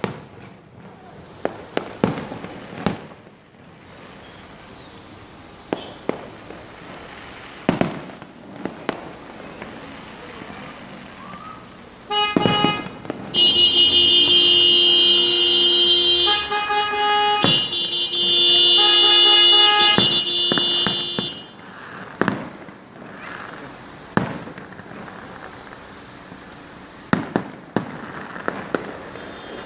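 Fireworks going off in scattered single bangs. Near the middle, several car horns honk together in long held blasts for about nine seconds, then the scattered bangs continue.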